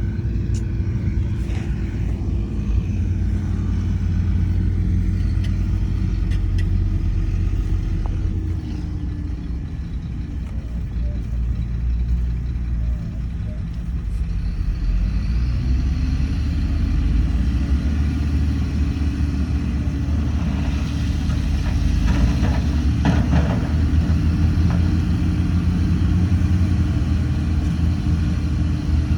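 Heavy diesel engine of earthmoving machinery running steadily. It drops in speed about nine seconds in and revs back up a few seconds later, with a few short clanks later on.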